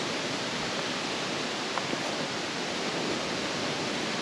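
Steady outdoor rushing noise, even and unbroken, with one faint tick about two seconds in.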